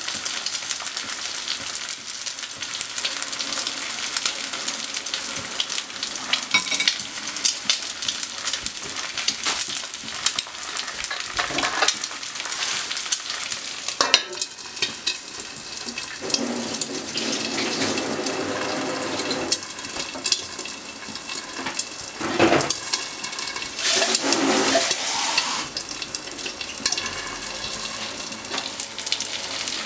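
Sausages and eggs frying in an oiled non-stick pan, a steady fine sizzle and crackle of spitting fat. About halfway through, a sharp clack as a glass lid is set on the pan, and the sizzling goes on under the lid with a few louder spells.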